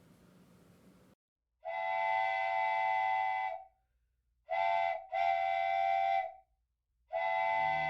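A train whistle sounding four blasts, a chord of several steady notes: long, short, long, and a last long one. Music starts under the last blast near the end.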